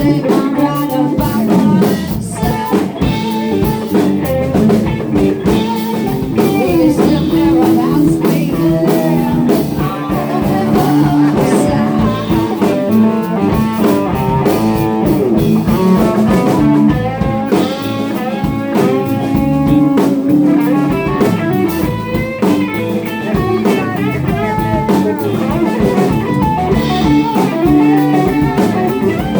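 Live band playing a blues-rock jam: electric guitars with bass and drum kit, the guitar lines weaving through continuously.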